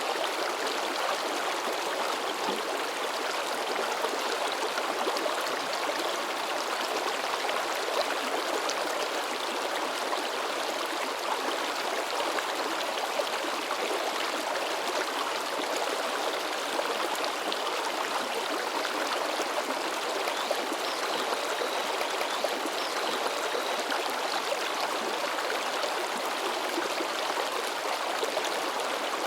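River water babbling and splashing over rocks, a steady rushing that never lets up.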